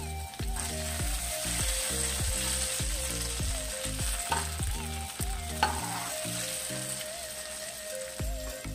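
Spice-coated whole eggplants sizzling steadily in hot oil in a non-stick pan, the sizzle swelling about half a second in, with a steel spatula scraping and clicking against the pan a couple of times near the middle as they are moved. Background music with a steady beat plays underneath.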